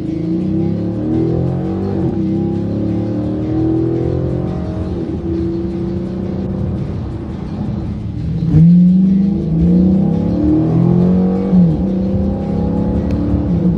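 Dodge Challenger SRT8's 6.1-litre Hemi V8 heard from inside the cabin while accelerating, its note climbing and dropping back several times with the gear changes.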